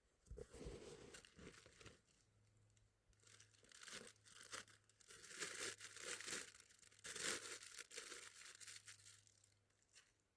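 Hard, icy snow being scraped and cut by hand in a series of short strokes, the loudest about seven seconds in.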